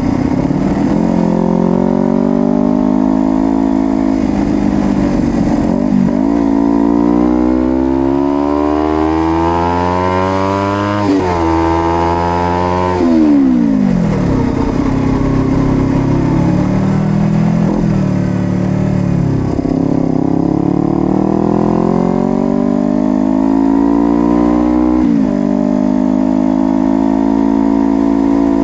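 Honda CBR250RR motorcycle engine under way, revs climbing and dropping sharply at each gear change, several upshifts in a row through the first half. About halfway through, the revs fall as the bike slows, then climb again with another shift near the end.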